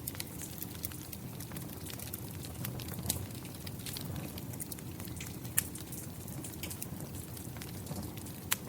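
Wood fire crackling, with frequent sharp pops and snaps over a steady rush of rain.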